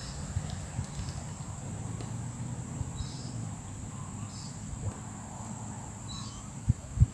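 Outdoor ambience dominated by a steady, high-pitched insect drone, with a few short bird chirps and two dull low thumps near the end.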